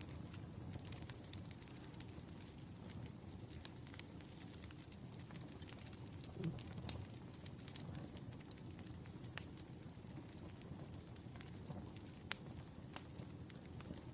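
Wood fire burning: a steady low rumble of flames with irregular sharp crackles and pops of burning firewood, a few of them stronger, about six, nine and twelve seconds in.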